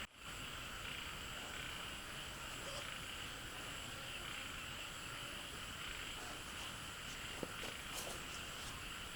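Steady outdoor chorus of frogs and insects, with a couple of faint clicks near the end.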